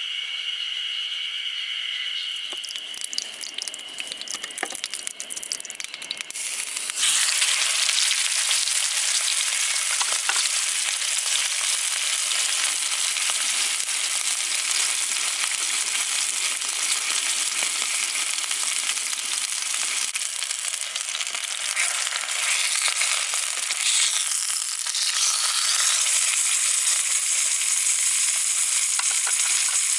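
Meat sizzling loudly on a hot grill over a campfire. A few seconds of scattered crackling come first, then a dense, steady sizzle starts suddenly about seven seconds in.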